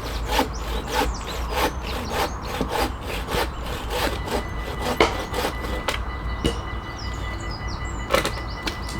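Hand saw cutting through a log in quick, even back-and-forth strokes, about three a second, which thin out to a few scattered strokes after about six seconds.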